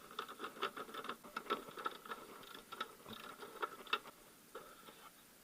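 Irregular light clicking and tapping of hand tools and fasteners on the engine while the upper timing belt cover is taken off, the clicks thinning out after about four seconds.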